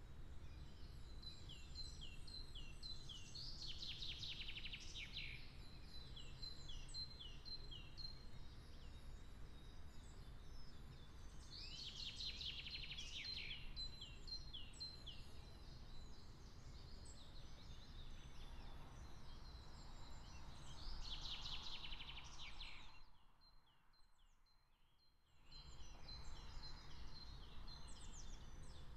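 Songbirds singing outdoors, with one bird's song of quick repeated notes ending in a louder flourish, heard three times about nine seconds apart, over a low background rumble. The sound cuts out for about two seconds near the end.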